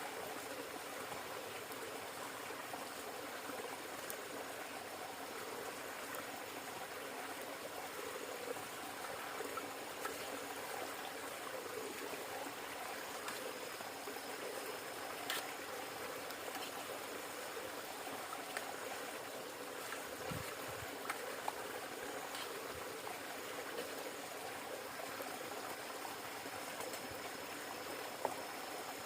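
River water flowing steadily, with a few faint clicks scattered through it.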